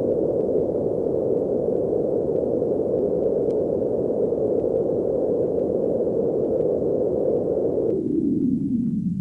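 Space-audio clip presented as the sound of the centaur Chariklo: a steady, loud, static-like rushing noise in a low-middle band. About eight seconds in, it sinks lower in pitch.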